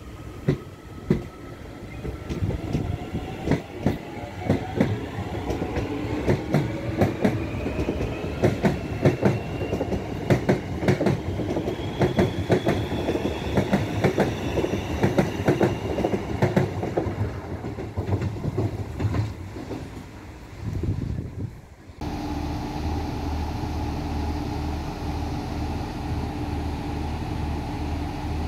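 A DART electric train running along the platform, its wheels clacking over rail joints under a whine that rises in pitch. After a cut about three-quarters of the way through, an Irish Rail 29000-class diesel railcar's engine runs steadily with a throbbing low hum as the train stands at the platform.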